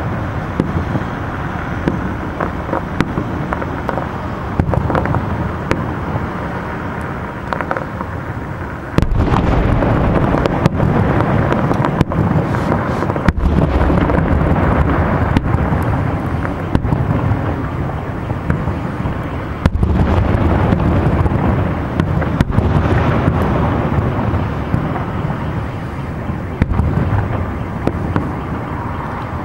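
Fireworks display: aerial firework shells bursting in a dense barrage of bangs over a continuous rumble, growing louder about nine seconds in.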